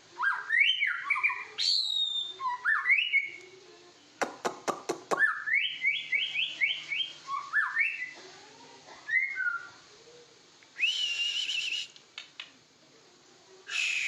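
White-rumped shama (murai batu) singing: phrases of loud whistled notes that sweep upward, a quick run of sharp clicks about four seconds in, and a held, wavering high note near the end.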